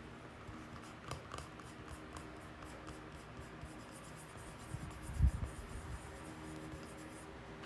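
Light, quick scratching and scraping of a hand repair tool working the surface of a wooden floorboard, with one soft thump about five seconds in.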